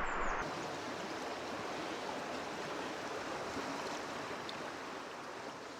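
River water flowing, a steady rushing hiss that slowly fades out near the end.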